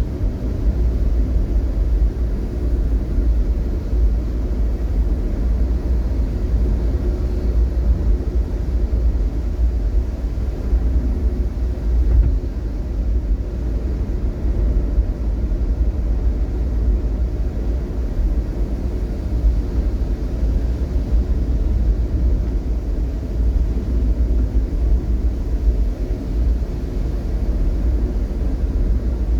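Steady low rumble of a vehicle on the move in traffic: engine and road noise, with no separate events standing out.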